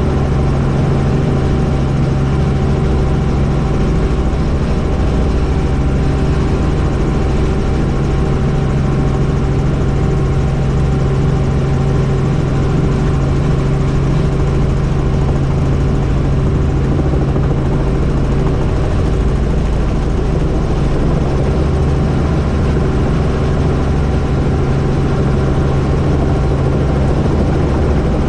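Helicopter in flight, heard from on board: a steady, loud drone of rotor and turbine with a constant low hum, unchanging throughout.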